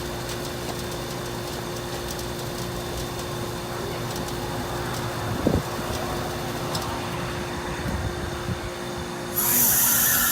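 A 2001 Amana heat pump's outdoor unit running steadily with its coil iced up: a steady compressor hum and fan, with a brief thump about halfway. About nine seconds in, a loud hiss starts suddenly, the rush of refrigerant as the unit switches into its defrost cycle.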